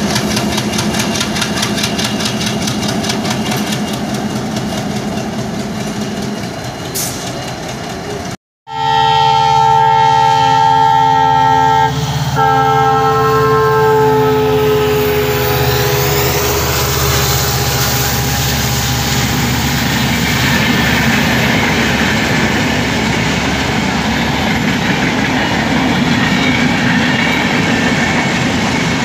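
A WDG4D diesel locomotive at the head of a passenger express sounds a loud multi-tone horn as it approaches and passes at speed. The horn is broken briefly about twelve seconds in, and its pitch drops as the locomotive goes by. The coaches then roll past with steady wheel clatter and rumble. Before a sudden cut about eight seconds in, a different diesel locomotive is heard running with a rhythmic beat as it hauls a goods train.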